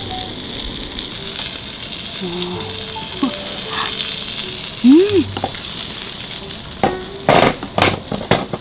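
Croissant dough sizzling in a hot bungeoppang (fish-shaped pastry) pan, a steady frying hiss. Near the end comes a quick run of sharp knocks and clatter.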